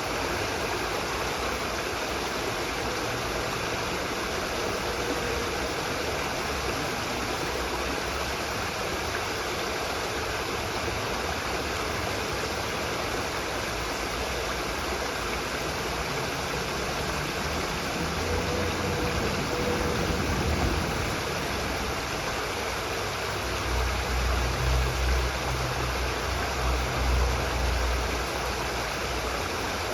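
Steady rushing of a stream of running water. A low rumble swells briefly twice, once around the middle and again near the end.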